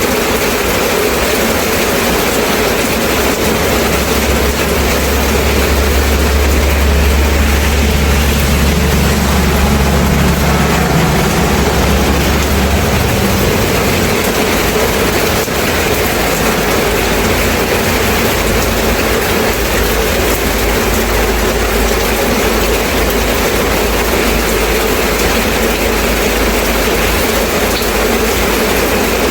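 Steady rain falling. A deep low rumble rises under it about four seconds in and fades out around thirteen seconds.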